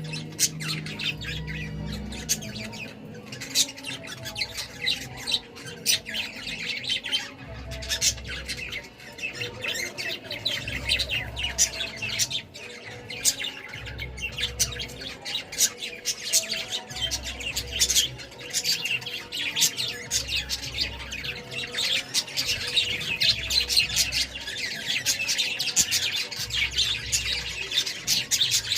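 A flock of budgerigars chattering continuously, with many quick overlapping chirps and squawks.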